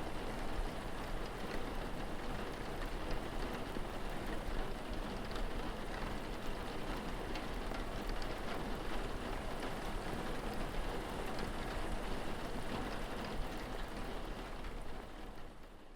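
Steady rain with many small drops pattering, fading out near the end.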